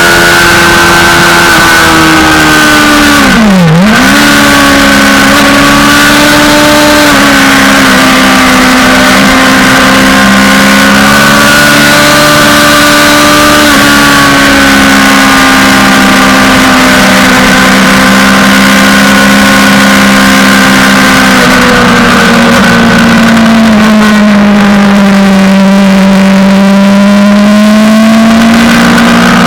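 Suzuki GSX-R600 inline-four sportbike engine running hard at high revs, over a steady rushing noise. The revs drop sharply and come straight back about three and a half seconds in, then hold high with slow rises and falls, sag for a few seconds near the end and climb again.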